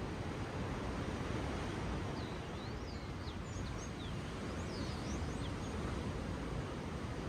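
Ocean waves washing on a shore, a steady rush, with a bird giving a quick series of short high chirps in the middle.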